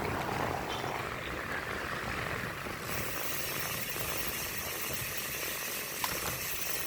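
Steady road and traffic noise with a low engine rumble, as from riding along a road, with a single short click about six seconds in.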